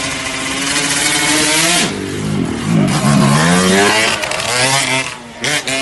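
Motorcycle engine accelerating hard, its pitch climbing as it revs up, with a brief break about five seconds in.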